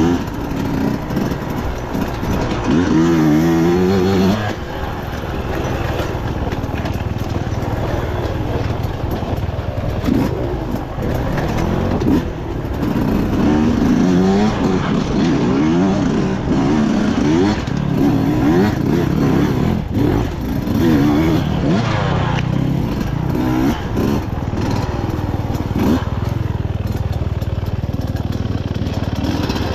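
Husqvarna dirt bike engine revving up and dropping back again and again as the bike is ridden along a trail, the pitch rising and falling every second or so.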